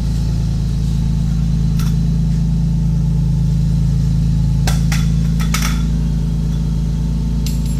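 Toyota Supra's turbocharged 2JZ straight-six idling steadily, with a few light clicks.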